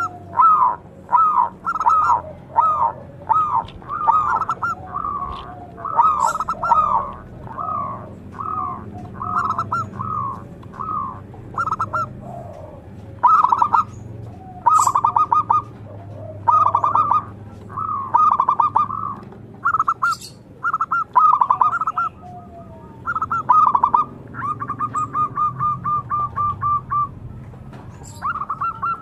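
Zebra dove (perkutut) singing loudly: bursts of rapid, stuttering cooing notes repeated one after another, with a run of quick even notes about 25 seconds in.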